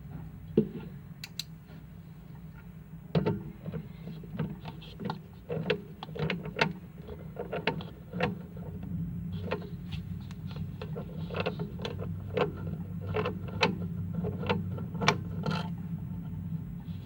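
Irregular small clicks and knocks, as of tools and parts being handled during repair work, over a steady low hum.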